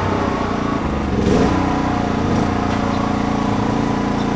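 Car engine idling unevenly, with a quick rev about a second in.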